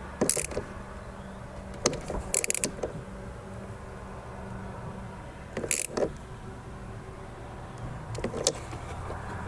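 A handful of short metallic clinks and scrapes from a spanner tightening the nut on a car battery's earth-lead connector, over a faint steady hum.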